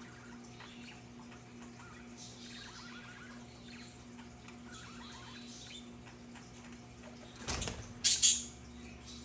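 Budgerigars chirping and chattering softly, and near the end two short, loud, harsh sounds in quick succession.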